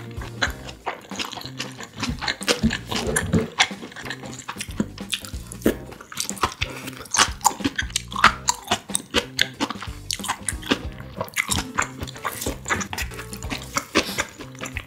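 Close-miked chewing and crunching of mouthfuls of rice mixed with stir-fried kimchi, fried anchovies and sausage, a dense run of sharp crackles and wet clicks. Near the end a wooden spoon scrapes in the metal lunch box tin.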